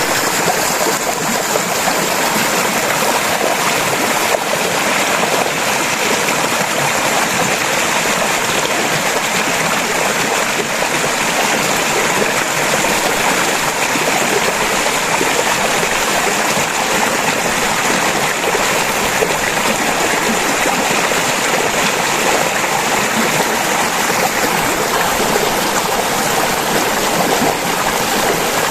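A river stream running over rocks, a steady babbling and splashing rush with no breaks.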